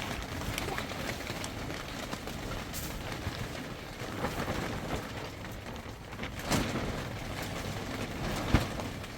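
Strong wind buffeting the microphone as a steady low rumble, with two sharp knocks near the end.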